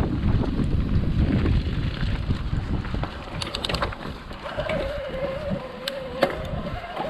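Wind buffeting the microphone and the rumble of a mountain bike rolling fast down a rough dirt trail, with scattered clicks and knocks from the bike over the ground. About halfway through, a steady wavering whine sets in and holds.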